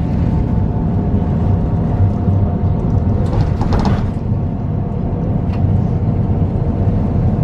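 Steady low rumble of a vehicle running, with a faint steady whine above it and a brief rustle about three and a half seconds in.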